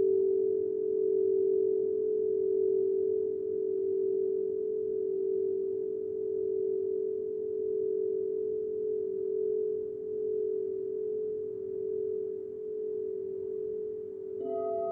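Crystal singing bowls sustaining a steady low hum of two close pitches that waver slowly against each other; a higher-pitched bowl joins near the end.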